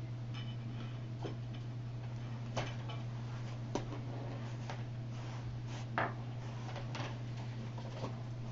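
A handful of light, irregular clicks and ticks, roughly a second apart, over a steady low hum.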